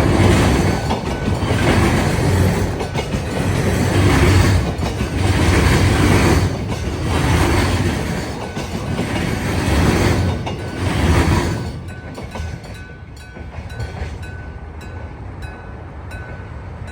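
Train passing over a level crossing, its wheels clattering over the rail joints in a regular rhythm about every second and a half, until it clears the crossing about twelve seconds in. Then the crossing's electric bell (電鐘) is left ringing alone in rapid, even strikes.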